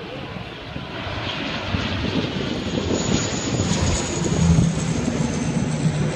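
Firefighting airplane's engines passing low, growing louder to a peak about four and a half seconds in, with a thin high whine over the engine noise.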